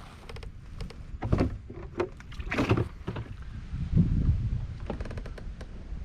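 Handling noise on a kayak: scattered clicks, knocks and creaks, with two louder rushing sounds in the first half. Wind rumbles on the microphone underneath.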